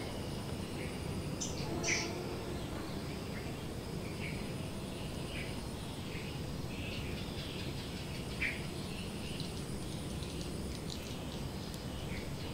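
Outdoor ambience of birds chirping in short scattered calls, a couple standing out louder, over steady low background noise. A thin high insect buzz comes and goes.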